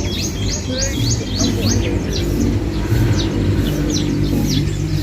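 Birds chirping: a string of short, quick chirps, each falling sharply in pitch, coming fast in the first second or so and then more spaced out, over a steady low background hum.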